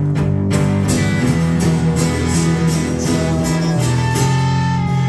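A rock band playing live between sung lines, with guitars and bass. About half a second in, a steady beat of sharp percussive hits joins the guitars.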